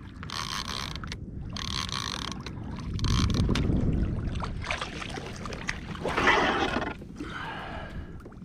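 Water splashing and sloshing in irregular bursts at the side of a kayak as a hooked mahi-mahi, still green and lively, thrashes beside it, with a low rumble of wind or handling near the middle.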